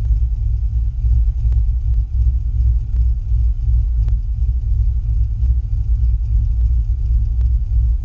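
Turbocharged truck engine idling warm, a steady low rumble, with a few faint clicks.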